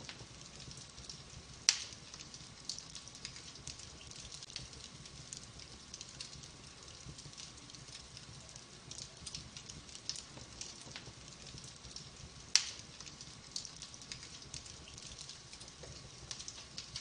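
Wood fire in a fireplace crackling steadily, with frequent small snaps and two sharp, loud pops, one near the start and one about two-thirds of the way through.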